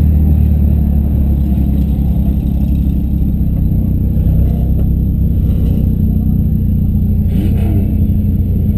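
Demolition derby car engines running loud and low, with a short burst of noise about seven and a half seconds in.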